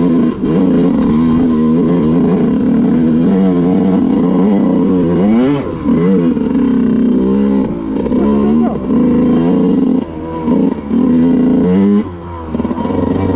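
Dirt bike engine revving as it is ridden, its pitch rising and falling with the throttle, with several brief drops in loudness where the throttle is shut off.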